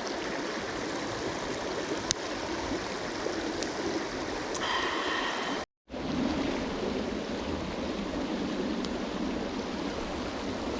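A river flowing steadily over rocks, with a few faint clicks. The sound drops out for a moment just before the middle.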